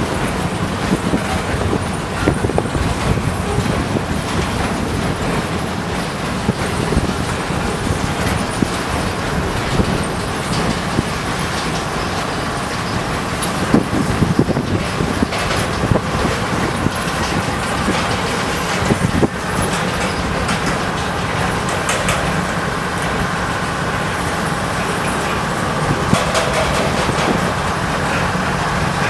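Work train rolling past: a steady rumble of wheels on rail with scattered clicks and clanks. A faint steady whine joins in the later half.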